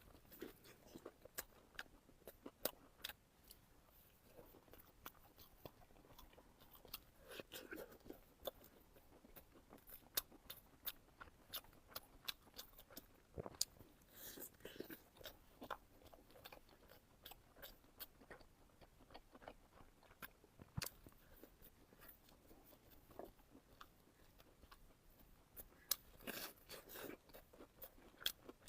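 Close-miked chewing of crunchy food: soft, irregular crisp crunches and small clicks of bites and chews, with louder bursts of crunching about halfway through and near the end.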